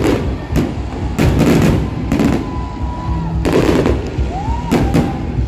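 Aerial fireworks shells bursting in a rapid, irregular series of bangs over a continuous low rumble. A couple of brief whistles rise above it in the second half.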